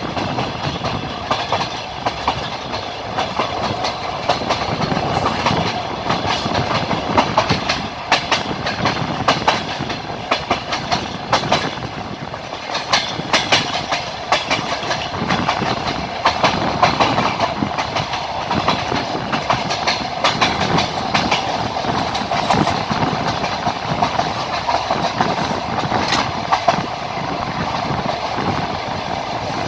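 Train wheels running over the rails at speed, clacking at the rail joints over a steady rumble, heard from aboard the train.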